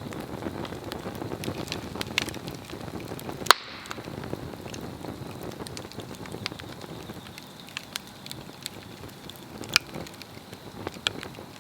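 Swedish torch, an upright log slit and burning from within, crackling steadily with scattered sharp pops; the loudest pop comes about three and a half seconds in, another near the end.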